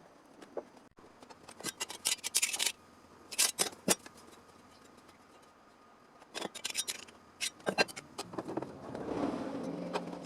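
Hand snips cutting sheet steel, in several short runs of quick crisp snipping clicks with pauses between, as a small repair panel is cut out.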